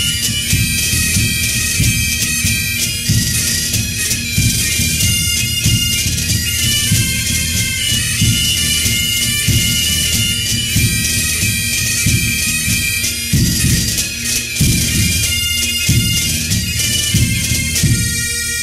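Bagpipes playing a tune over their steady drones, with drum beats underneath.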